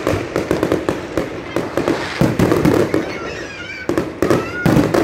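Fireworks going off at close range: a dense, rapid run of loud bangs and crackles, with a few short whistling tones around three seconds in.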